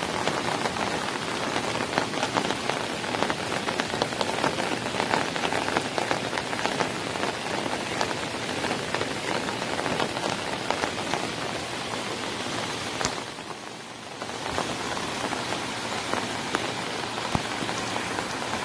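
Steady rain, with many sharp drop ticks through it. It dips briefly about fourteen seconds in, then carries on.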